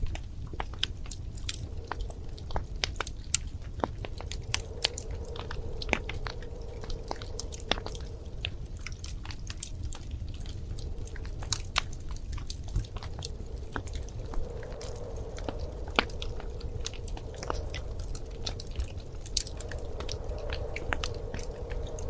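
Wood fire in a fireplace crackling, with irregular sharp snaps and pops, several a second, over a steady low rumble of the flames.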